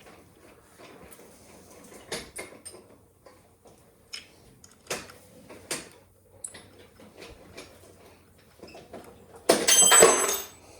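Hand tools and metal engine parts knocking and clicking now and then as a pit bike engine is worked on, then a louder metal clatter with a brief ringing near the end.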